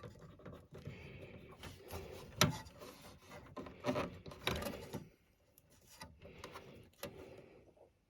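Power supply leads rubbing and rustling as they are handled and fitted to a motherboard's power connectors. A few sharp clicks and knocks come through, the loudest about two and a half seconds in, and it goes quieter after about five seconds.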